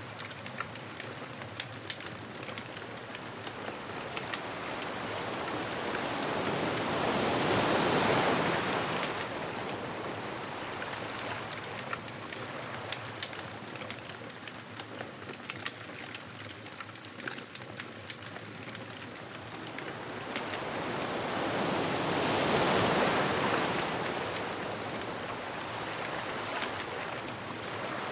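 Ocean waves breaking on a beach, two slow swells about fifteen seconds apart, over a continuous fine crackling from a wood bonfire.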